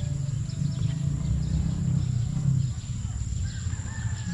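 Outdoor ambience: a low wind rumble on the microphone, with scattered short bird chirps and a steady high insect drone.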